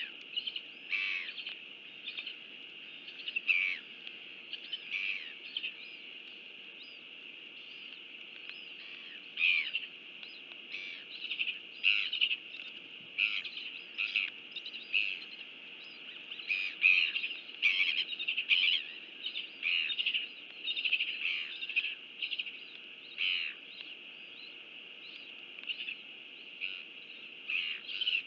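Birds chirping: a run of short, quickly falling chirps, irregular and in clusters, over a steady hiss.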